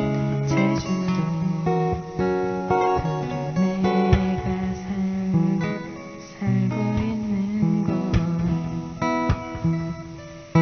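Acoustic guitar strummed, playing the chords of a song.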